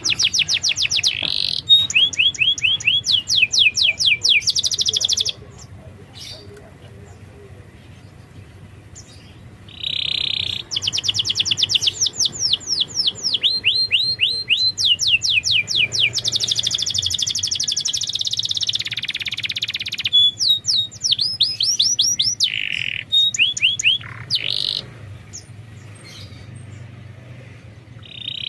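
Domestic canary singing rapid trills of quickly repeated high notes, in several phrases separated by pauses of a few seconds.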